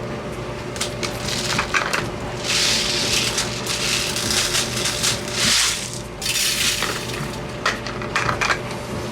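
Laundry being handled: clothes rustling in several bursts of about a second each, with scattered clicks and light clinks, over a steady appliance hum.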